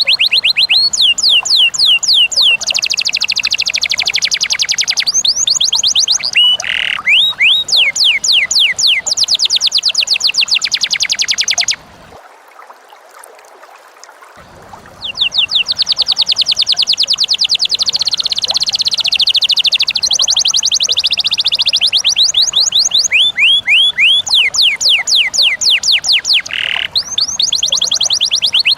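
Lovebird and canary song: long, fast runs of high chirps, each slurring downward, with rattling stretches in between. The song stops for about two seconds about twelve seconds in, then resumes.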